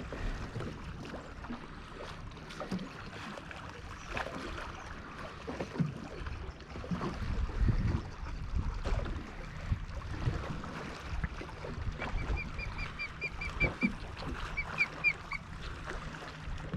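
A bird calling overhead: a rapid series of short, high chirps, about six a second, lasting a second and a half near the end, followed by a few more. Low knocks and water noise from the boat run underneath.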